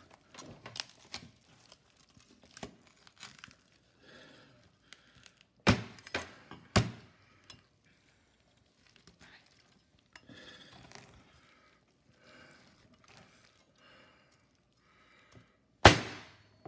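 Chinese cleaver chopping through turkey rib bones onto a cutting board: three sharp chops about six seconds in and one loud chop near the end, with small knife clicks in between.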